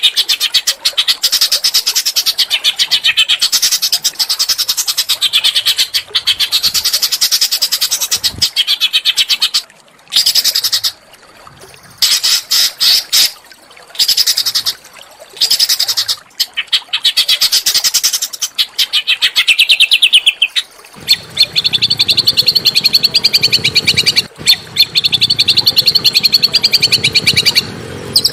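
Small songbird singing fast, dense, high trills and rattling phrases in long runs broken by short pauses. About three-quarters of the way in the song turns to a steadier trill, with a low, even background noise beneath it.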